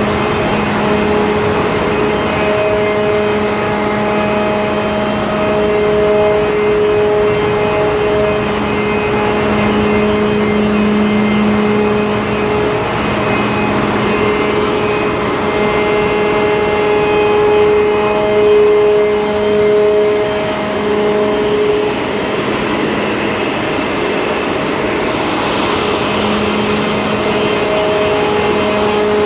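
Bulk carrier's engine room machinery running: a loud, steady mechanical din with a layered hum whose tones swell and fade.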